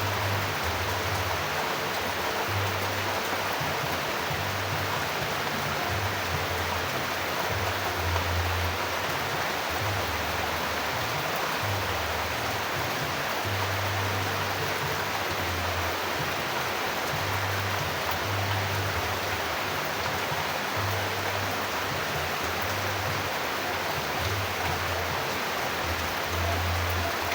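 Steady rain, an even hiss, with slow low notes of soft background music beneath it.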